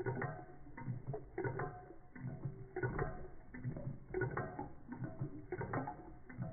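Reichelt Adler toy Stirling (hot-air) engine driving a Péricaud model pump: mechanical clicking and clatter in a regular rhythm, a group of strokes about every second and a half over a low hum.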